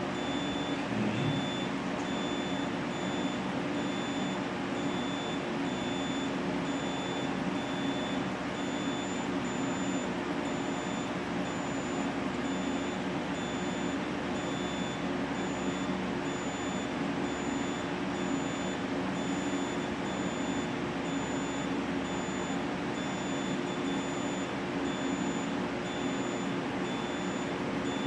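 Inverter fault alarm beeping steadily: a high-pitched beep that repeats at even intervals over a steady low hum.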